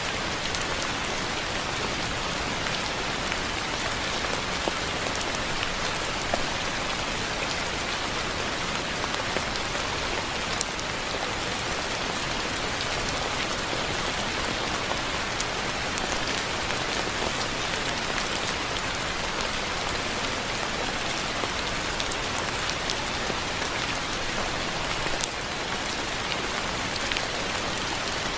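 Steady rain falling: an even hiss, with occasional single drops ticking out above it.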